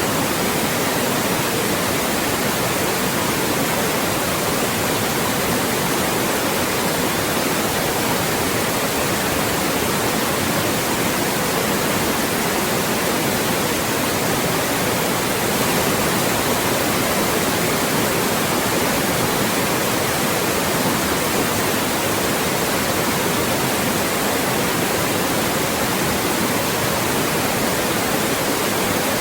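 Loud, steady white noise: an even hiss spread across all pitches, with no change.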